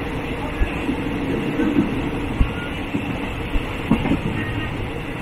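Thai State Railway local train running along the line, heard from inside a third-class carriage with open windows: steady running noise of wheels on rail with a few sharp knocks at irregular moments.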